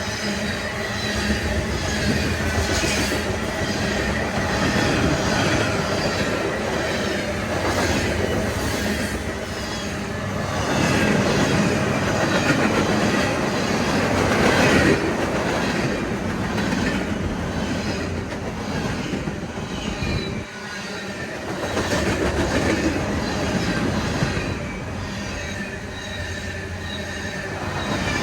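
CSX mixed freight train rolling past, its cars' wheels clicking over rail joints, with some wheel squeal.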